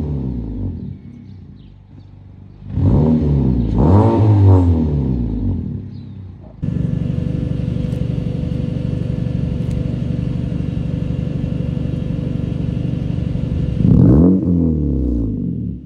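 2012 Honda Civic's 1.8-litre four-cylinder through an aftermarket exhaust with an eBay Fireball muffler, revved up and let fall twice in quick succession, then held at a steady engine speed for about seven seconds from an abrupt start, and revved once more near the end.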